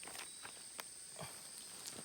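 Steady high-pitched drone of insects, with scattered sharp clicks and crackles over it.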